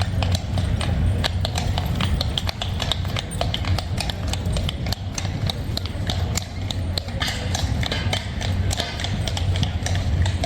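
Horse hooves clip-clopping on wet cobblestones, many irregular sharp clicks over a steady low rumble.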